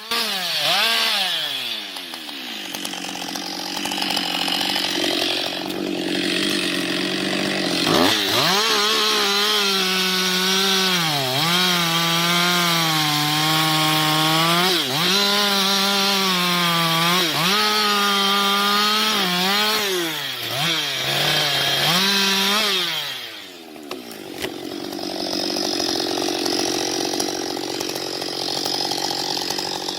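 Two-stroke chainsaw bucking a felled log into sections, running at high revs. Its pitch sags and recovers again and again as the chain loads up in the wood. The revs fall away right at the start, and after about three-quarters of the way through it drops to a lower, quieter sound.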